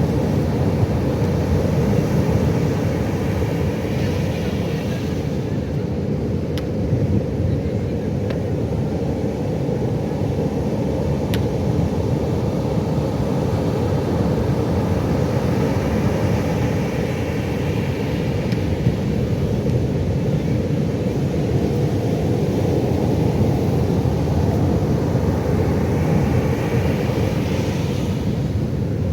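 Pacific Ocean surf: a steady low roar, with breaking waves washing in three times as a hiss that swells and fades.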